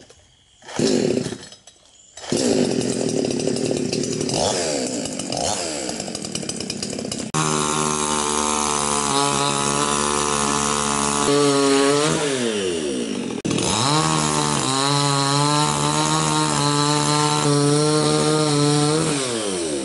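Two-stroke chainsaw cutting up the trunk of a fallen embaúba (Cecropia) tree. After a short burst about a second in, it runs steadily from about two seconds in. Its engine pitch drops and climbs back a couple of times in the middle as the chain works through the wood, then falls away near the end as the throttle is let off.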